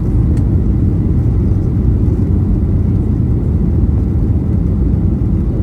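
Steady low rumble inside the cabin of a Boeing 737-800, its CFM56-7B jet engines and the airflow heard from a rear window seat.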